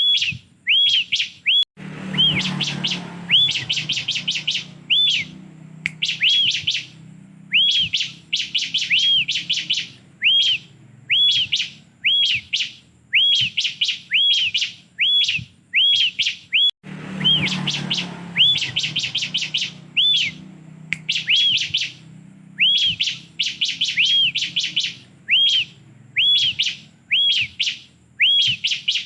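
Bar-winged prinia (ciblek) song: repeated arched whistled notes alternating with fast chattering runs of short notes. The song cuts out briefly about two seconds in and again around seventeen seconds in, and each time the same sequence starts over.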